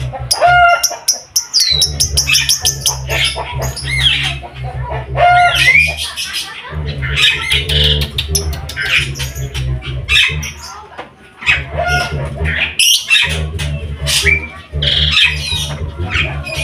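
Several songbirds singing and chirping at once, a dense mix of whistles, trills and short rising and falling calls, over a low rumble that comes and goes.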